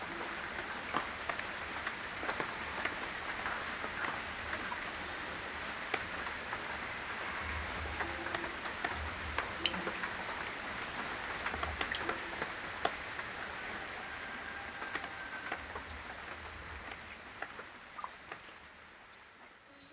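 Rain falling, a steady patter of many separate drops, fading out over the last few seconds.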